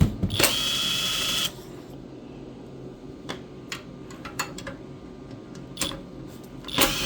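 Electric impact driver zipping out the valve cover bolts on a Predator 212 engine: two bursts of about a second each, one just after the start and one near the end, with clicks of tool and bolt handling between.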